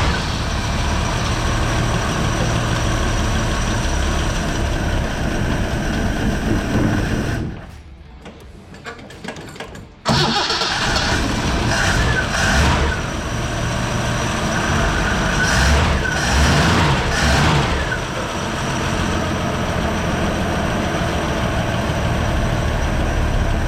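Holden 173 red inline-six being cranked over on the starter, in two long stretches with a pause of a couple of seconds about seven seconds in. After six years sitting, it is cranking to draw fuel up through a dry mechanical fuel pump.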